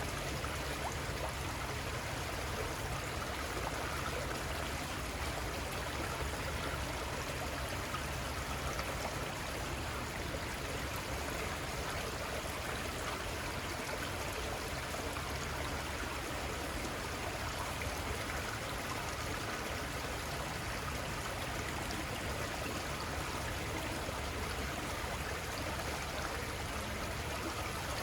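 The Little Conestoga River flowing steadily, an even rush of running stream water.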